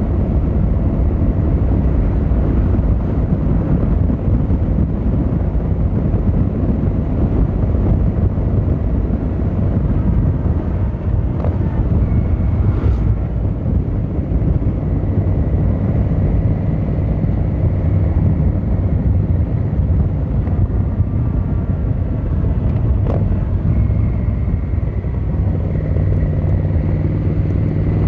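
Yamaha XVZ1300 Royal Star V4 engine and exhaust running steadily under way on the road, with wind and road noise over it. Near the end the engine note rises as the bike accelerates.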